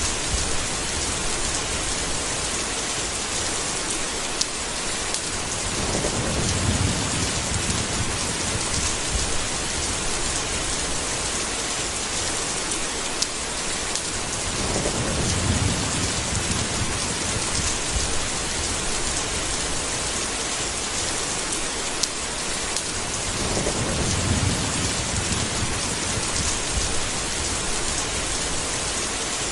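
Steady heavy rain hiss, with three low rolls of thunder about nine seconds apart.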